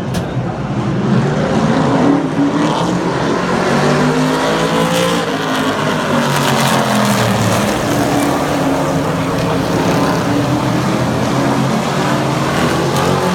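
Several Super Truck racing trucks' engines running at speed on a short oval, several at once, their pitch rising and falling as they pass and lift through the turns.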